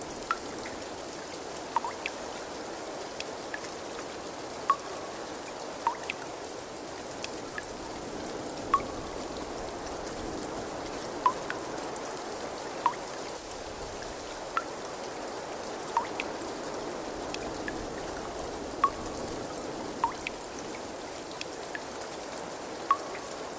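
Water trickling steadily, with single drops plinking into water every second or two.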